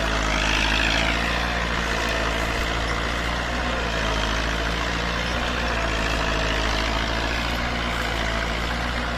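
Farm tractor diesel engine running steadily under load while it pulls a four-disc chopping harrow through sugarcane leaves. About a second in, a brief whine rises and falls.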